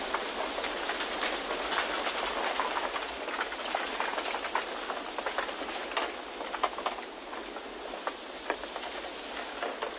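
Steady rushing wind noise for white-noise listening, with many light, irregular ticks scattered through it.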